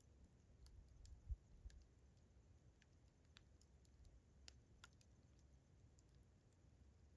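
Campfire burning with faint, sparse crackles and pops, plus a soft low thump about a second in.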